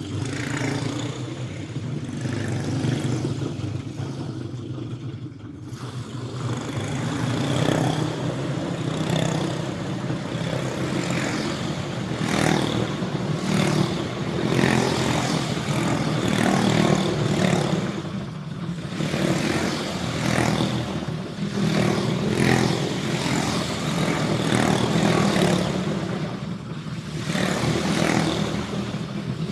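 Several Briggs & Stratton Animal racing kart engines running on track together, overlapping and rising and falling in pitch as they rev.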